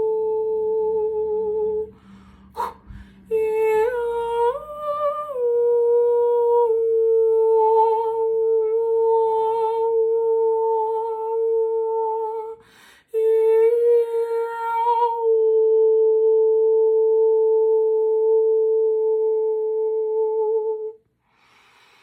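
A woman's voice humming a long, steady sacred-sound note in light-language style, with a short step up in pitch about four seconds in before settling back. Two quick in-breaths break it, about two and a half and thirteen seconds in, and it stops about a second before the end.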